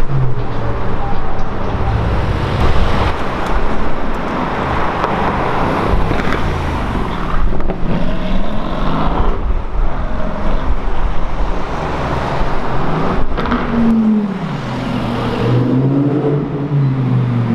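Supercar engines in street traffic, their pitch rising and falling several times as they rev and pull away.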